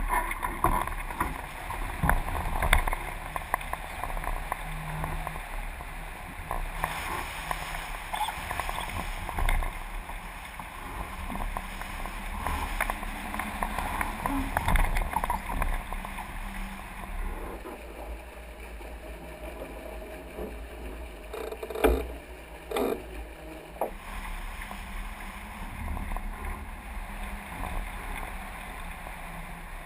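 Water rushing and splashing past the hulls of a Hobie 20 catamaran under sail, with wind on the camera's microphone, rising and falling unevenly. A few sharp knocks, the loudest about two-thirds of the way through.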